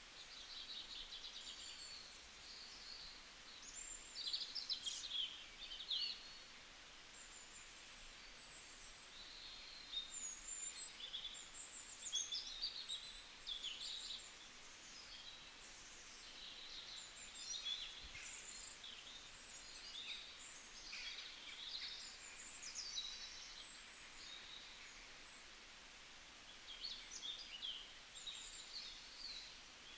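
Several small songbirds chirping and trilling in high, quick phrases, busiest in a few clusters, over a faint steady background hiss.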